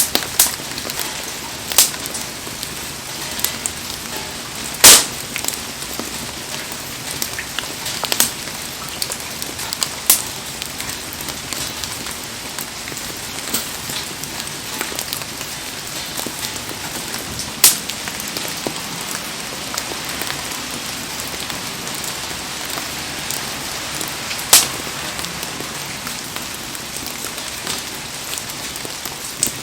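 Heavy rain falling steadily around a wood bonfire, an even hiss broken by a few sharp pops from the burning wood, the loudest about five seconds in.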